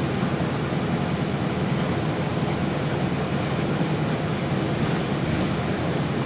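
Single-deck city bus under way, heard from inside the saloon: steady engine and road running noise with a thin, steady high-pitched whine over it.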